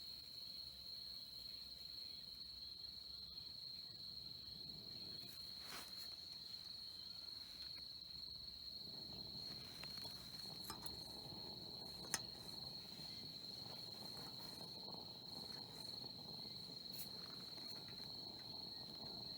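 Crickets chirring: a steady, unbroken high-pitched trill, with a few faint clicks and one sharper click about twelve seconds in.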